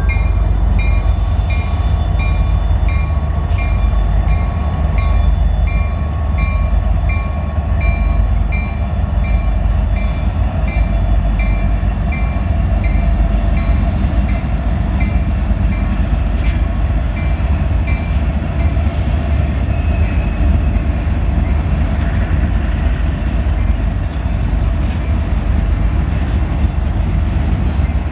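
A freight train passing close by: a heavy, steady low rumble of locomotives and rolling cars. Over it, a ringing tone repeats about twice a second and fades out about two-thirds of the way through.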